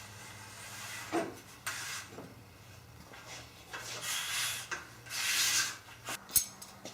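Aluminium extrusion rails and their bolt hardware being handled and slid into place: a series of short scrapes and rubs, with a few sharp clicks near the end.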